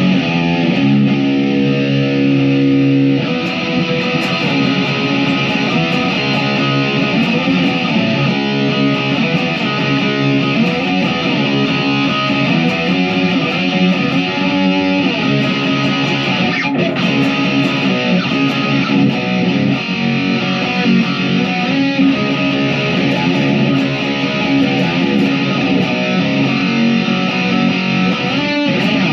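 Chapman SAR63 electric guitar played through a distorted, Friedman-style amp preset. It opens with held chords for about three seconds, then moves into continuous riffing.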